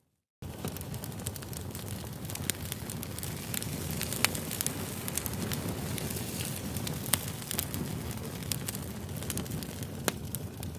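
Wood campfire crackling: a steady low rush of burning with sharp pops and snaps scattered irregularly throughout. The sound drops out completely for a split second at the very start.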